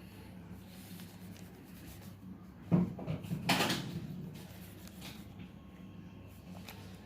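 A single knock a little under three seconds in, followed by a short rustling scrape, over a steady low hum.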